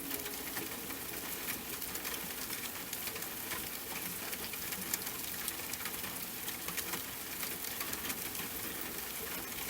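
Steady rain: an even hiss thick with small drop ticks.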